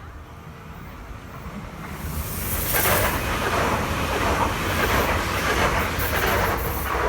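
A sea wave breaking and washing up the shore, a hiss that swells about two seconds in and holds for several seconds, with wind buffeting the microphone throughout.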